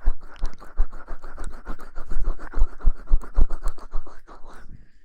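Close-up ASMR scratching and rustling right at the microphone: quick, dense scratching strokes, several a second, with soft low thumps, easing off just before the end.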